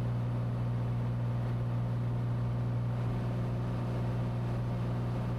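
Steady drone of a Cessna 182T's Lycoming six-cylinder engine and propeller in cruise flight, heard inside the cabin as an even low hum.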